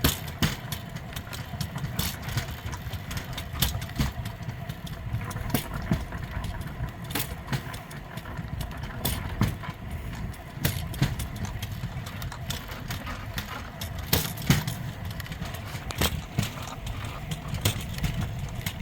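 Pedal-powered rail bike rolling on steel rails: a steady low rumble of the wheels, with sharp, irregular clicks and clacks as they pass over rail joints.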